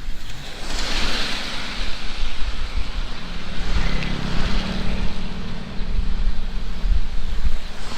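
Heavy rain falling in strong wind, with wind buffeting the microphone; the rain hiss swells about a second in. A steady low hum joins in the second half.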